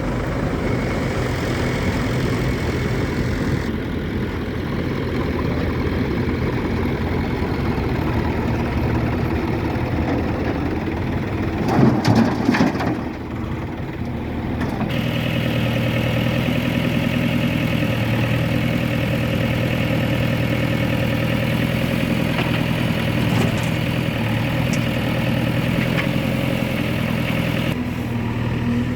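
Diesel engine of heavy earth-moving machinery running steadily, with a louder noisy burst about twelve seconds in. From about fifteen seconds in the engine note fills out and holds steady.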